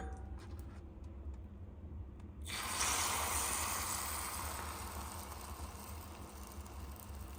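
Egg poured into a hot mini waffle maker, sizzling suddenly about two and a half seconds in and then slowly dying down.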